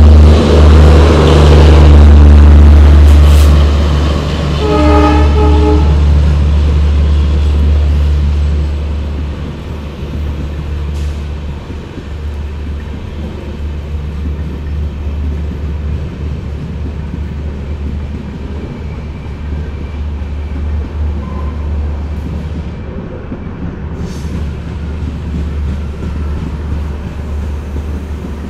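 Diesel locomotive passing close by at the head of a passenger train, its engine running loud, its horn sounding at the start and again in one short toot about five seconds in. The engine fades after about eight seconds, leaving the steady rumble of the coaches' wheels rolling over the rails.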